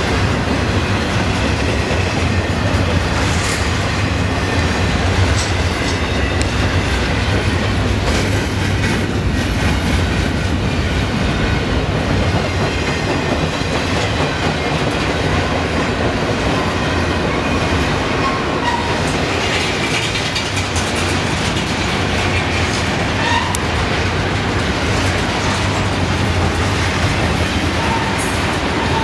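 Freight train cars rolling past: a steady rumble of steel wheels on rail with the clickety-clack of wheels over rail joints.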